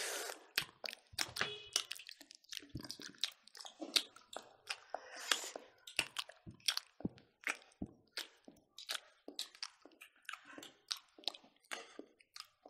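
Close-up mouth sounds of several people eating smoked pork and rice by hand: irregular wet clicks and smacks of chewing, scattered throughout with no steady rhythm.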